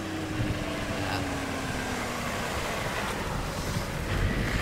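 Mitsubishi Pajero 2.8-litre turbo-diesel engine running, its note slowly falling over the first couple of seconds, over a low rumble.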